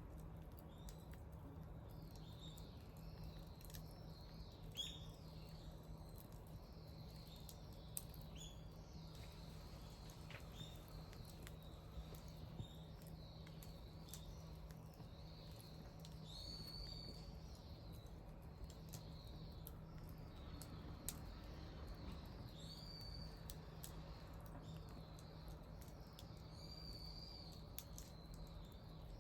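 Wood bonfire crackling quietly, with a few sharp pops, while small birds chirp several times in short high calls. A faint low hum lies underneath.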